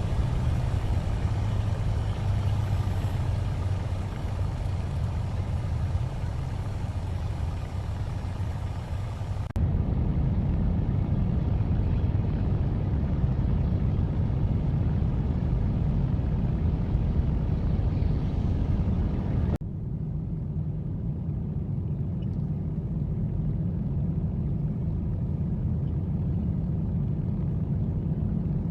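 Steady aircraft engine rumble that changes abruptly twice, about ten seconds apart, as one engine sound gives way to another; the first stretch carries more hiss than the later, deeper ones.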